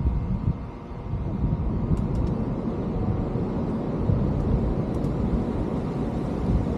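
Wind buffeting the microphone: a gusty low rumble that dips briefly about a second in.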